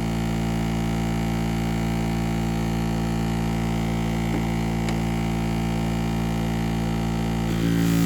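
Electric sharpening machine running with the 400-grit stone, a steady motor hum. Near the end it grows louder and a new, higher tone joins in.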